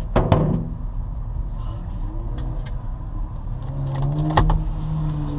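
A car engine running with a steady note, with two sharp knocks, one near the start and one about four seconds in.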